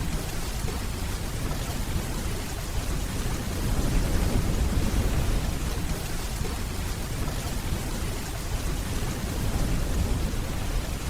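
Steady rainfall with a low rumble of distant thunder underneath, swelling about four seconds in and easing off a couple of seconds later.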